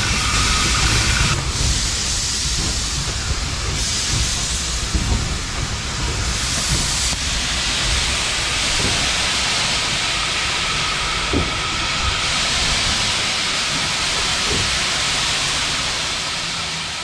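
1861 Robert Stephenson-built steam locomotive letting off steam in a steady hiss, which steps up and down in strength a few times, over a low rumble.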